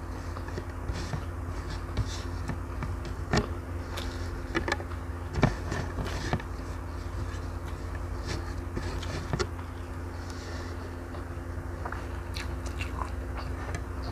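Close-miked eating sounds: chewing with small wet mouth clicks, and fingers scraping the last rice grains across a plate. Scattered sharp clicks come every second or so over a steady low hum.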